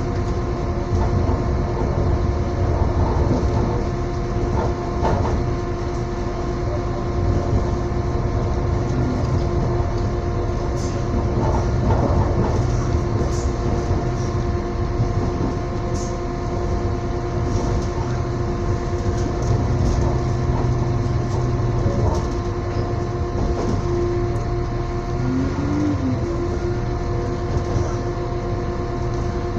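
Passenger train running steadily at speed, heard from inside the carriage: a constant low rumble with a steady hum over it and a few light clicks from the wheels.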